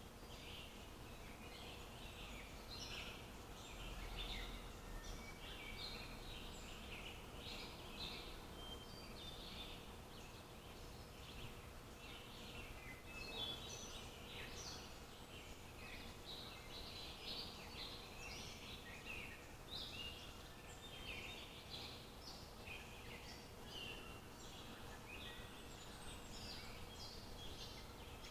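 Many small birds chirping and twittering in quick, overlapping calls, over a faint steady background hum.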